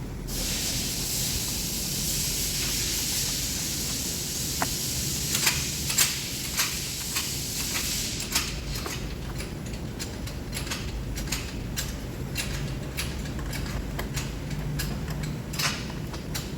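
A steady hissing spray for about eight seconds, then scattered light clicks and taps of tools on metal.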